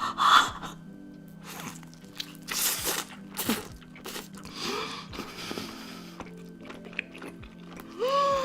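Close-miked mukbang eating sounds: biting and chewing of food, with a few crunchy bites, over a steady background music track. Near the end comes a short hummed sound that rises and falls.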